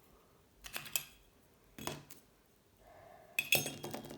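Sharp clicks and clinks of small metal hand tools working a piece of scrap metal, in three short bursts: about a second in, about two seconds in, and a louder one near the end.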